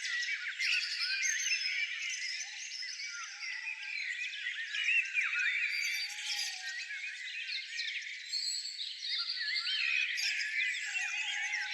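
Many birds singing at once in a dense chorus of overlapping chirps, trills and whistles, with occasional lower notes underneath.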